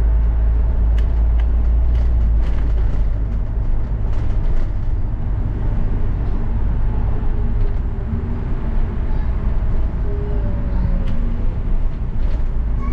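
Double-decker bus in motion, heard from inside: a steady low rumble of engine and road, with scattered small rattles and clicks. The rumble eases about four seconds in.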